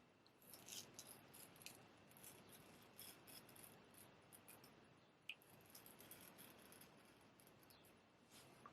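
Straight razor scraping through stubble in short strokes, a faint crackling that comes and goes, with one sharper click about five seconds in.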